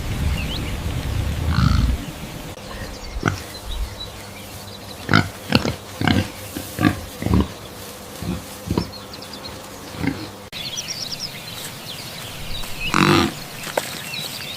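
Pig grunting: a quick run of short grunts in the middle, then a longer, louder grunt near the end.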